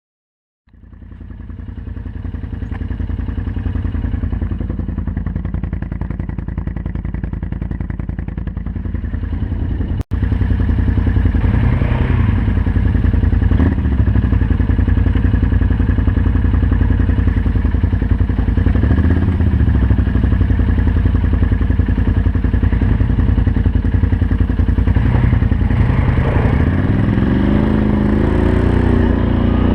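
Can-Am Outlander 500 ATV's V-twin engine running through an aftermarket Yoshimura exhaust. It fades in, and after a sudden cut about ten seconds in it is louder, with revs changing and climbing near the end.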